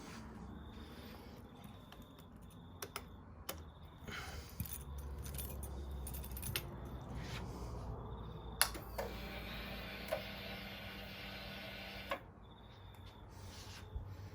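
Faint jangling of keys with a few sharp clicks, the ignition key being handled just before a Harley-Davidson Sportster is started.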